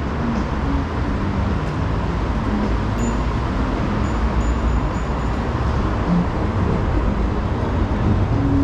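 Steady motor traffic on a busy city street: cars and buses running past, with a few faint short high squeaks about three to five seconds in.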